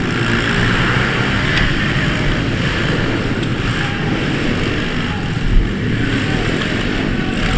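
Pit bike engines running steadily under throttle during a race.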